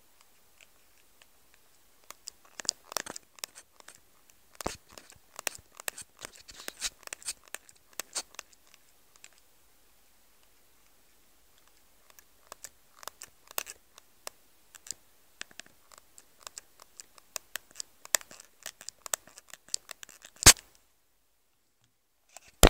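Nokia N96 mobile phone giving off a strange, irregular crackling and clicking noise in two long spells, ending with one sharp, loud click.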